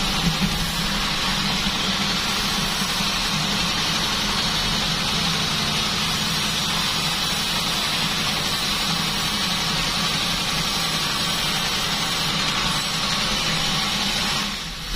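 Band sawmill running steadily, its motor hum and blade hiss unbroken, with a brief drop in level just before the end.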